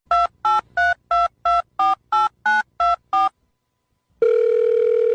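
Telephone keypad tones: ten quick two-note beeps of a number being dialled, about three a second. After a short pause, a steady ringback tone starts about a second before the end.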